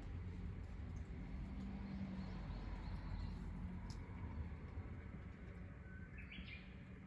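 A bird gives a short chirping call about six seconds in, over a steady low rumble.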